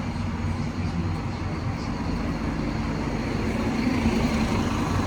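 Steady motor vehicle engine and road noise, a continuous low drone.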